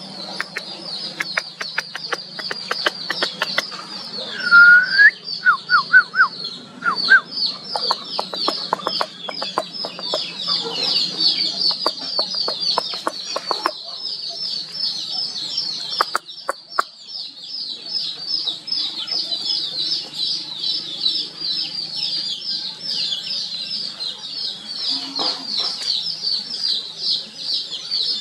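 Birds calling: a fast, high chirping repeated about three times a second, with scattered clicks through the first half and one short rising call about four and a half seconds in.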